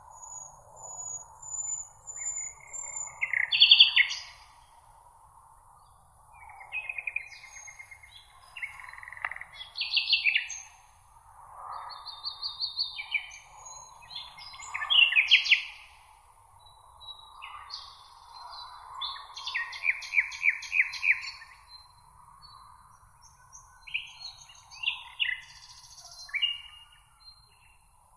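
Meadow birdsong: several small songbirds singing short phrases of chirps and rapid trills one after another, some loud and close, over a steady high hiss and soft background noise.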